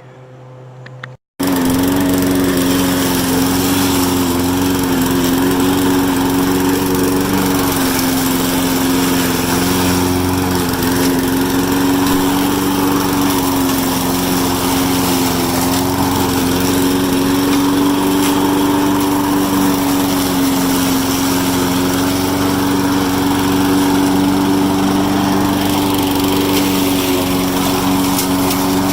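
Lawn mower's small engine, freshly filled with new oil, running steadily at constant speed; the sound cuts in abruptly about a second in.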